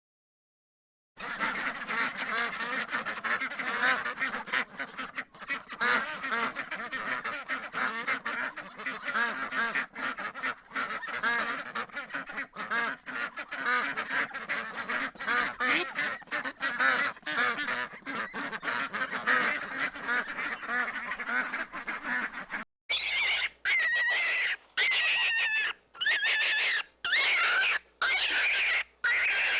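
A flock of poultry calling over one another in a dense, continuous chatter. About 23 seconds in it cuts to a different clip of higher-pitched calls broken by short gaps.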